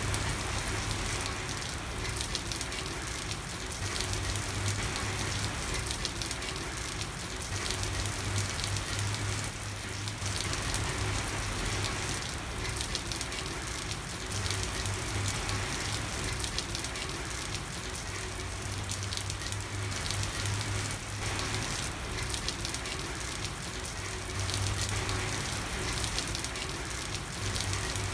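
Steady rain falling on a street: an even hiss of countless patters, with a low hum underneath that swells and fades.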